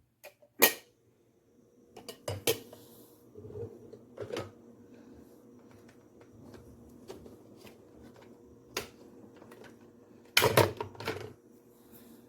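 Several sharp clicks and knocks, with a dense cluster near the end, over a faint steady hum.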